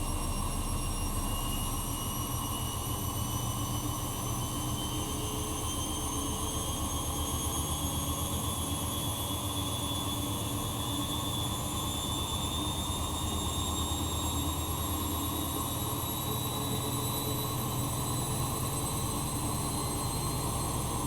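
Bosch Maxx Advantage WFCX2440 washing machine running, its motor whine rising slowly and steadily in pitch as the drum gradually picks up speed, over a low pulsing rumble from the turning drum.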